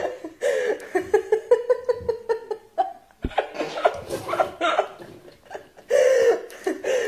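A person laughing in repeated bursts: a quick run of short laughs near the start, then more laughter about four seconds in and again near the end.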